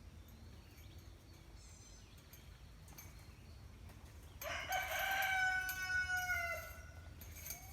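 A rooster crowing about halfway through: one long cock-a-doodle-doo that holds its pitch and drops off at the end. A second, fainter call starts just before the end.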